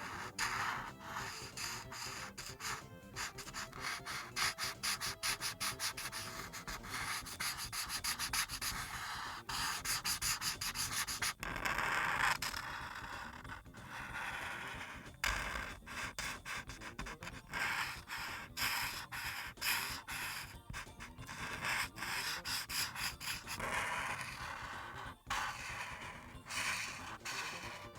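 Ohuhu Kaala alcohol marker tips scratching and rubbing across paper in quick, repeated back-and-forth strokes while filling in an area with color.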